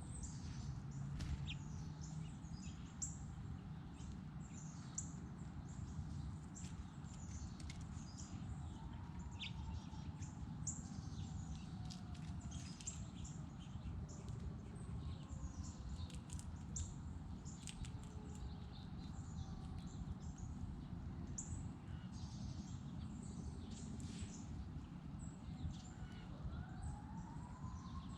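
Small songbirds chirping, many short high chirps one after another, over a steady low background rumble.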